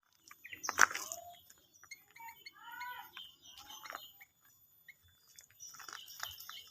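Sooty-headed bulbul giving short chirps and a quick run of warbling notes, among sharp clicks, the loudest about a second in.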